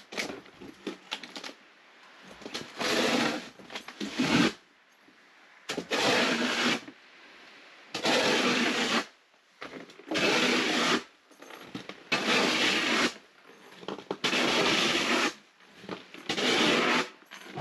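Snow shovel scraping and pushing through heavy snow in regular strokes, about one every two seconds, with lighter scuffs before the strokes settle into a rhythm.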